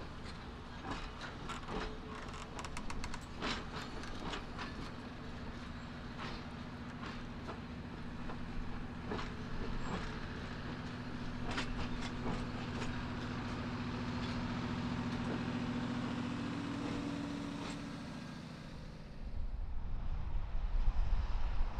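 Passenger cars of a train rolling past, the wheels clicking and clacking irregularly over rail joints over a steady hum, which swells slightly and then fades as the last car goes by. Near the end, low rumbling wind noise on the microphone takes over.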